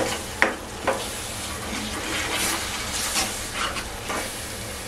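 Ground onion-and-coconut masala paste sizzling in hot oil as a steel ladle stirs and scrapes it around a nonstick kadai, with a couple of sharp ladle knocks in the first second.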